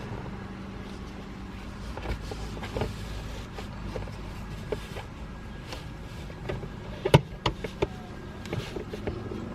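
Steady low hum in a car cabin with scattered clicks and taps of a plastic console accessory being handled and fitted. A few sharper clicks come about seven seconds in.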